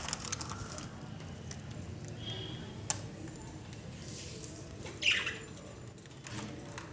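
Pet budgerigars giving a few scattered short chirps, the loudest a sharp call falling in pitch about five seconds in, with a light click in between.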